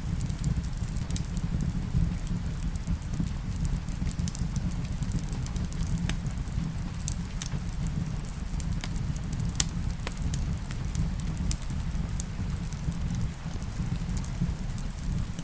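Wood fire in a fireplace crackling: scattered sharp pops and snaps over a steady low rumble, with rain falling under it. One pop about ten seconds in stands out as the loudest.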